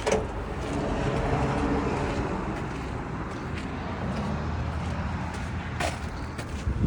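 Low, steady rumble of road traffic. A sharp click comes about six seconds in, and a heavier thump right at the end.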